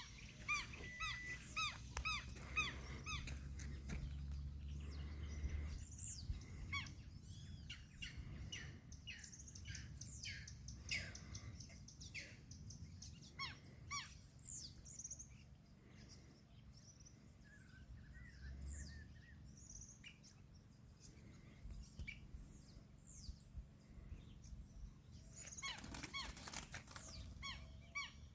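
Several birds calling in dry Caatinga scrub: short chirps and whistles throughout, with a quick repeated call in the first few seconds.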